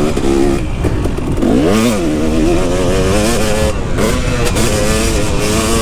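KTM 250 SX two-stroke single-cylinder dirt bike engine revving under the rider while riding a motocross track. The pitch keeps climbing and dropping with the throttle, with one sharp rev up and back down about two seconds in.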